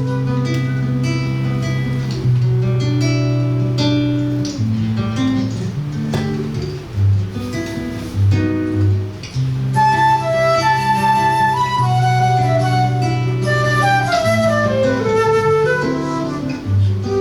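Flute and seven-string acoustic guitar duo playing a piece in 6/8 time: the guitar's low bass notes and chords under a flute melody that climbs and falls in quick runs.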